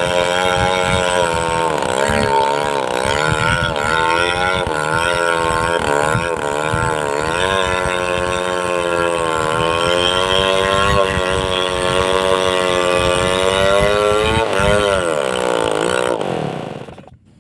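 Two-stroke petrol chainsaw running while cutting, its engine pitch dipping and recovering as the chain bites into the wood. Near the end the engine winds down and stops.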